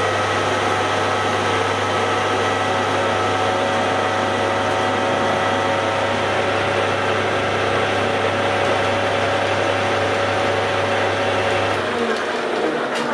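Electric machine motor running steadily with a low hum, switched off about twelve seconds in and winding down.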